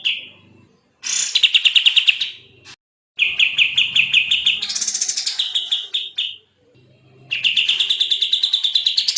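Kapas tembak songbird singing in fast, tightly packed strings of rapid repeated chirps, about ten notes a second, in three long bursts separated by short pauses.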